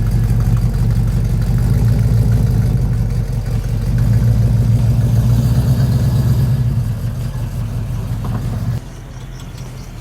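A car engine idling close by, a loud, steady low engine note that drops away sharply about nine seconds in.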